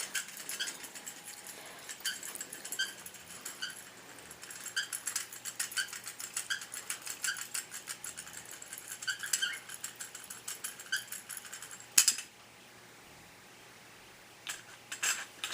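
Cockatiel pecking at its mirror toy: a long run of quick, irregular clicks and light rattling, a sharper click about twelve seconds in, then a short pause before a few more taps near the end.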